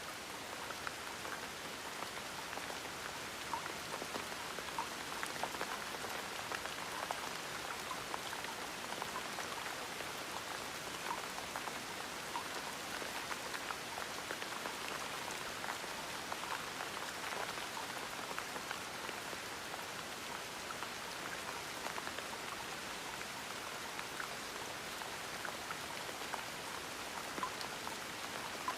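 Gentle rain falling steadily, with a continuous hiss and many small patters of drops landing on a surface.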